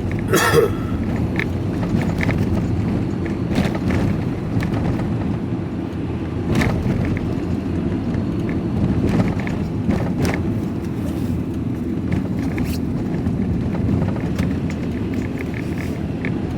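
Engine and road noise inside a moving vehicle's cab: a steady low rumble with occasional short knocks and rattles.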